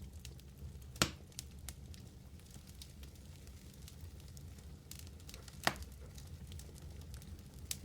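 Wood fire burning in a fireplace: a steady low rumble with scattered small crackles and three sharp pops, the loudest about a second in, another past the middle, and one near the end.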